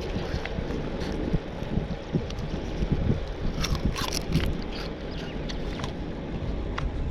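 Wind buffeting the microphone as a low, steady rumble, with scattered short clicks and rattles, typical of a bicycle ride on a rough dirt road.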